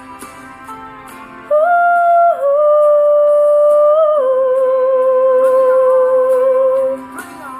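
Wordless sung or hummed vocal over guitar accompaniment, holding three long notes that step down in pitch, starting about a second and a half in and stopping shortly before the end.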